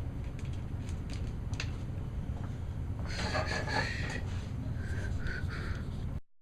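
Handling noise on a Zoom H1 handheld recorder being taken out of a pocket: a steady low rumble with light clicks and a louder rustle about three seconds in. The recording cuts off abruptly near the end as the recorder is switched off.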